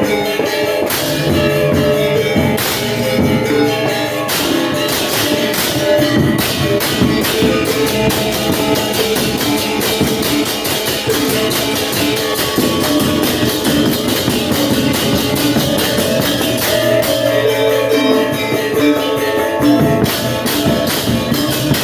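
Balinese gong kebyar gamelan playing: bronze metallophones and gongs in a dense, steady texture, with ceng-ceng cymbal strokes and kendang drumming. The low gongs and drums thin out about seventeen seconds in and come back near the end.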